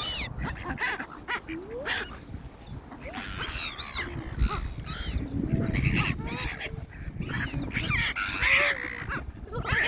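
Ducks and gulls calling over one another, many short overlapping quacks and cries, as the flock crowds in for thrown bread.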